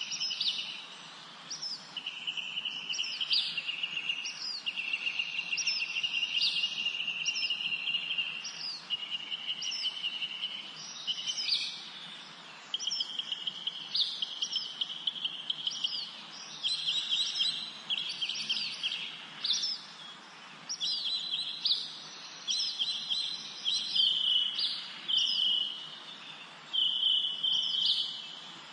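Songbirds singing in a spring forest. One bird repeats long, rapid trilled phrases of a second or two, with short gaps between them, while others give short, high, down-slurred notes over the top.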